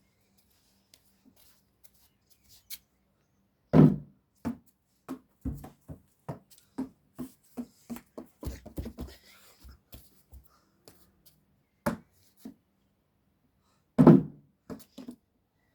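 A basketball thudding. One loud hit, then a run of quicker, lighter bounces for several seconds, then two more loud hits near the end.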